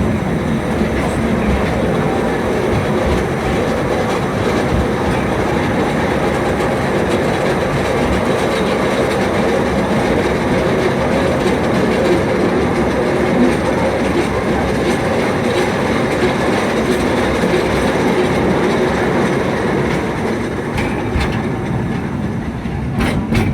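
Narrow-gauge forest railway train running, heard from on board: a steady rumble of wheels on rail, with a few sharp clacks near the end.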